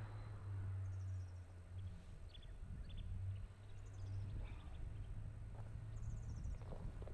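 Quiet outdoor ambience: scattered short bird chirps over a low steady drone.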